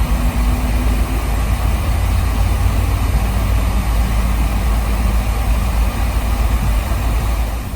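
Steady cabin noise inside a Boeing 767-300ER airliner: a low rumble under an even hiss of air and machinery.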